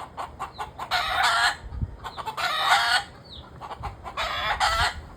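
A flock of chickens in an uproar: roosters crowing one after another, three long crows in a few seconds, with hens clucking in short sharp calls between them. A real racket.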